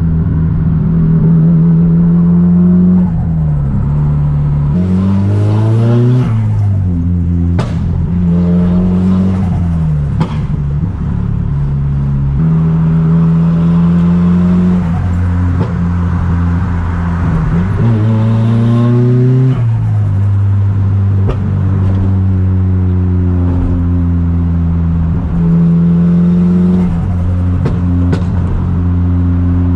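Straight-piped Nissan Silvia S15's engine pulling through the gears while driving: the note holds steady at cruise, then climbs in pitch under acceleration and drops back at each gear change, several times over. A few short sharp cracks come around the shifts.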